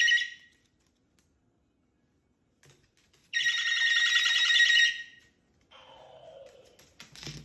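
Electronic toy giving a phone-like ringing tone in two bursts of about a second and a half each, the second starting about three seconds in. A fainter falling sound follows, and there is a small knock near the end.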